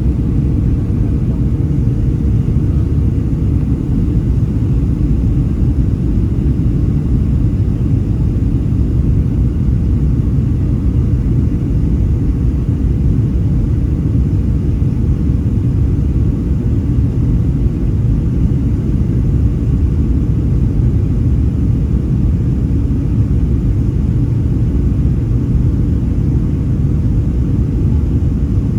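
Cabin noise inside a Boeing 737-800 in flight: the steady low rumble of its CFM56 turbofans and the air rushing past the fuselage, with a faint hum that fades out in the first few seconds.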